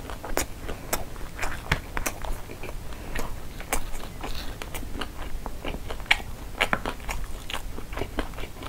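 Close-miked chewing and mouth sounds of a person eating sushi rolls, with irregular sharp clicks a few times a second.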